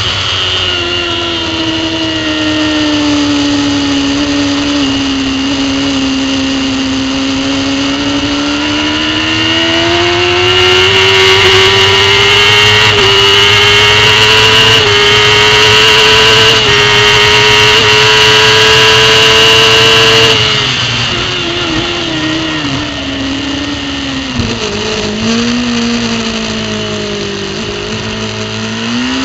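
Racing superbike engine heard from an on-board camera. It pulls hard, with the revs climbing in steps through gear changes for about twenty seconds, then drops sharply as the bike brakes and downshifts, and the revs rise and fall through the following corner.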